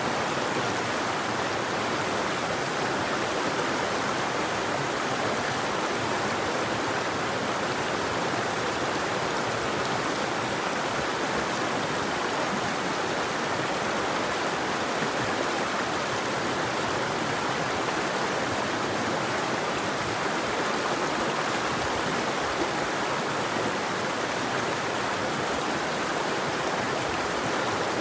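River or stream water flowing and rushing, a steady even sound that doesn't change.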